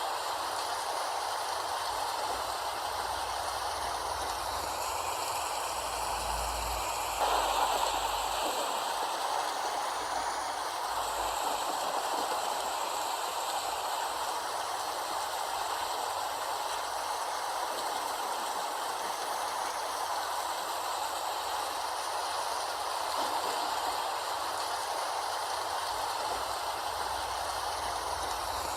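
Steady rain falling, an even hiss of many drops, briefly a little louder about seven seconds in.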